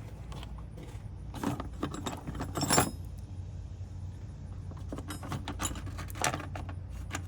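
Small steel bolts clinking and rattling together as they are handled, in several short bursts with the loudest near the middle.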